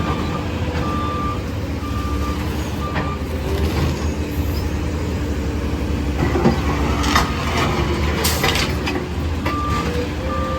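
Garbage truck's engine running steadily while its reversing alarm beeps about once a second, pausing after about three seconds and starting again near the end. In between come a few clattering knocks from the truck.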